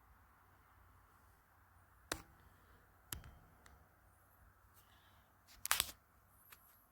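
Quiet background with a few sharp clicks and knocks: one about two seconds in, one about three seconds in, and a louder double knock near the end.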